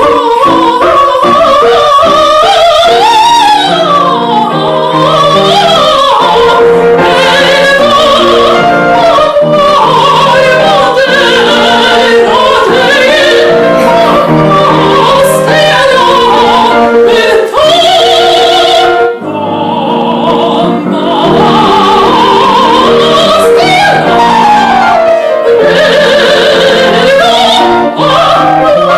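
A classically trained voice sings a Russian romance in operatic style, with wide vibrato, over piano accompaniment. There is a short break in the voice about two-thirds of the way through.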